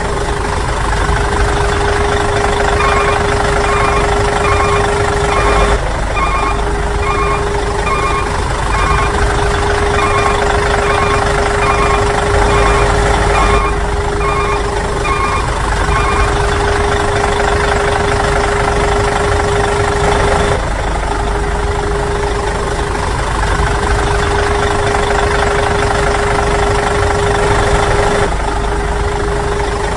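Simulated truck engine sound running steadily, with a reversing beeper going about twice a second through the first half. The engine sound breaks off and restarts a few times.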